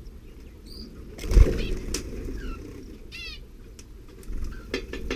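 A canary's wings flapping in a short loud flutter about a second in, close to the nest, with short high chirps scattered around it, including a quick run of falling chirps.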